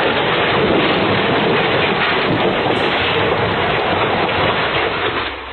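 Thunderstorm noise: a loud, steady roar of heavy rain and wind that eases off near the end.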